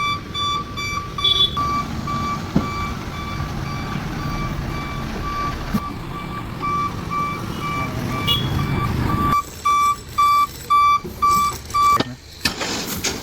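Dump truck's reversing alarm beeping steadily at about two beeps a second, over the low rumble of the diesel engine; the rumble drops away about nine seconds in and the beeps stand out louder.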